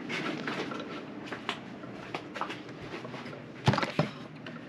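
Hands handling the plastic oil filter housing cap and filter cartridge. Scattered light clicks and taps, then two sharper knocks close together near the end, over a steady low hum.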